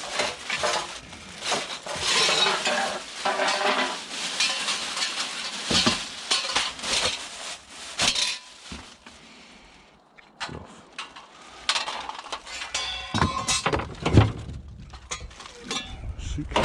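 Rummaging through rubbish by hand: dense rustling and crackling with clinks and small knocks, a lull about ten seconds in, then scattered knocks and clatters.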